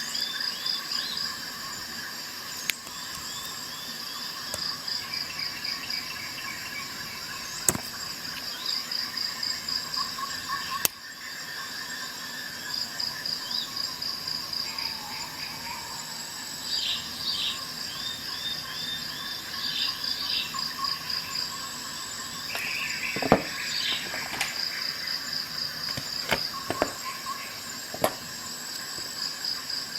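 Insects, crickets by their sound, trilling in a steady pulsed chirp, with birds chirping now and then. Half a dozen sharp clicks stand out above them, the loudest at about 23 seconds in.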